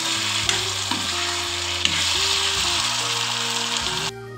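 Potato slices sizzling as they fry in hot oil in a pan, stirred with a metal spatula that clicks a few times against the pan. The sizzle cuts off abruptly just before the end.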